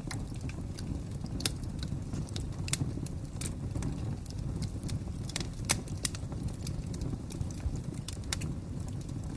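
Fire crackling: a steady low rumble of burning with irregular sharp pops and snaps, a few of them louder than the rest.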